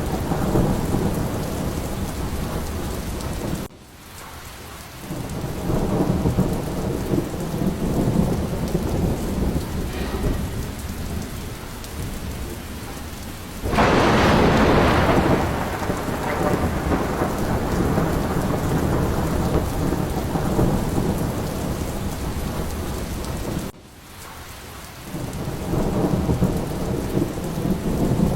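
Steady heavy rain with rolling thunder in a thunderstorm. About fourteen seconds in a loud thunderclap breaks out and rumbles away over a couple of seconds. Twice the sound drops off suddenly and swells back up.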